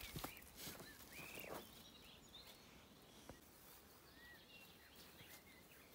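Quiet outdoor ambience with a few faint, scattered bird chirps; soft footsteps and rustling during the first second and a half.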